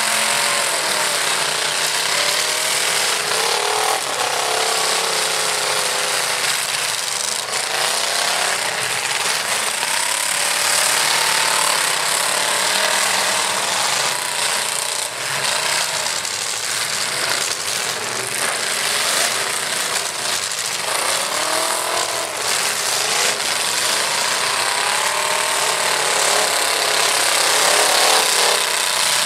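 Several demolition-derby pickup truck engines revving hard and rising and falling in pitch at once, with a few crashes a few seconds apart.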